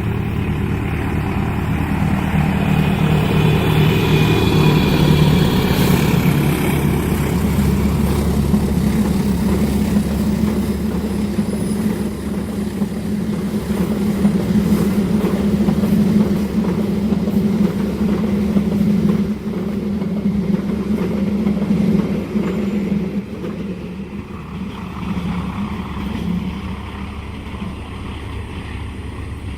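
A diesel train passing close by, its engine running with a steady low hum, with a brief high-pitched whine a few seconds in. The sound eases off over the last several seconds.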